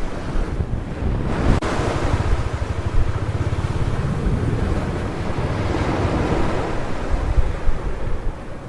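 Sea surf breaking and washing up a beach in swells, with wind buffeting the microphone and adding a low rumble.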